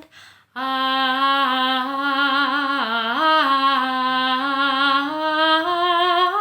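A woman singing one long held 'ah', about six seconds on a single breath. The pitch dips briefly in the middle and lifts a little near the end. It is a slow, calm phrase sung as breath-control practice.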